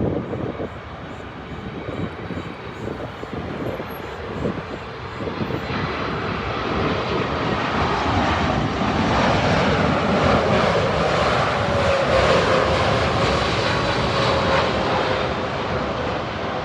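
A Boeing 747's four jet engines on landing. The noise swells from about six seconds in and is loudest past the middle, with a faint whine sliding slightly lower in pitch as the aircraft goes by.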